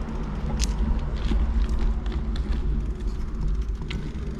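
Wind rumbling steadily on the microphone while riding a bicycle, with scattered faint clicks.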